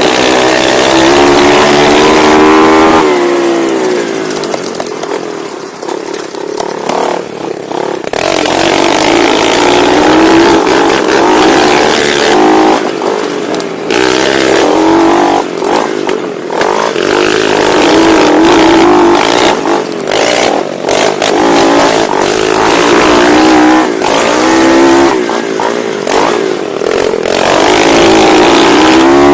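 Pit bike engine revving up and easing off again and again as it is ridden hard, its pitch climbing and falling with each throttle change. It is heard close up from the rider's onboard camera. About three seconds in it drops to a quieter, choppier stretch for a few seconds before pulling hard again.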